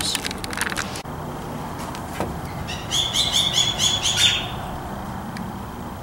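Rapid chirping trill of a small bird, about seven high chirps a second for just over a second, ending on a slightly longer note. Before it come a few light clicks of spark plug wire boots being handled at the distributor cap.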